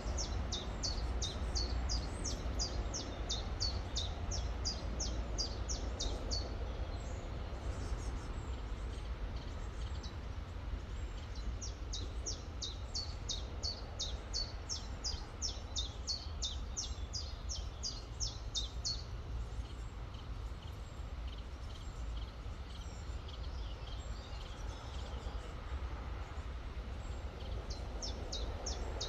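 A songbird singing long runs of rapidly repeated high, falling notes, two runs of several seconds each with another starting near the end, over the steady rush of a flowing river.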